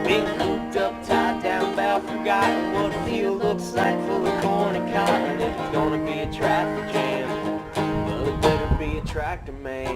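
Acoustic string instruments picking a country tune without singing: a steady run of plucked notes over held chords.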